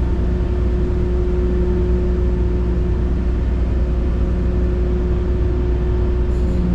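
Ferry engine running steadily: a continuous low drone with a steady hum above it.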